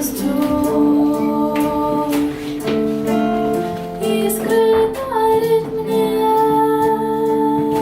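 A high voice singing a slow song in long held notes, with strummed guitar accompaniment.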